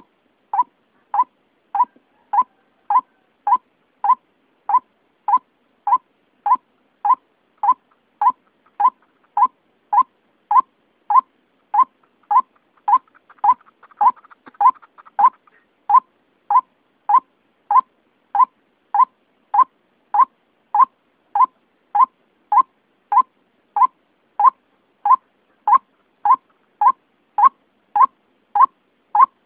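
White-breasted waterhen (ruak-ruak) call used as a hunting lure: one short call note repeated at a steady, even pace, a little under two a second, with a faint brief hiss about halfway through.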